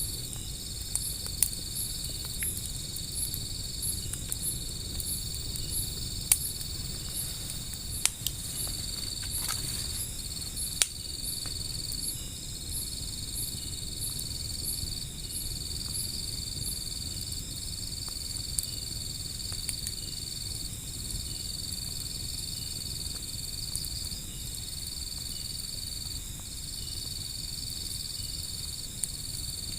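Night insects calling steadily: a continuous high trill broken by short gaps, with a faster pulsing chirp above it, over a low rumble. A few sharp pops cut through, wood fire crackling.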